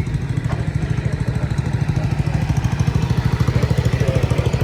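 An engine running steadily, loud, with a fast, even chugging pulse.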